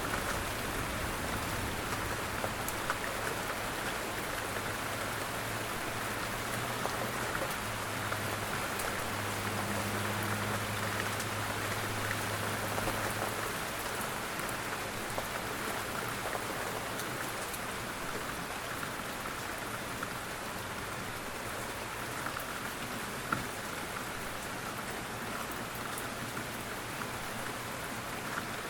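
Steady rain falling, an even hiss scattered with individual drop ticks. A low steady hum sits under it and fades out a little under halfway through.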